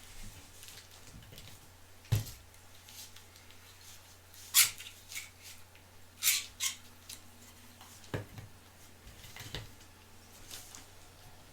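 Small objects being handled: about six sharp clicks and taps at irregular intervals a second or two apart, over a steady low hum.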